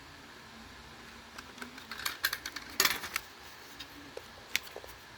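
Irregular sharp plastic clicks and light knocks from a smoke alarm being handled, with a quick cluster of clicks midway and another single click near the end.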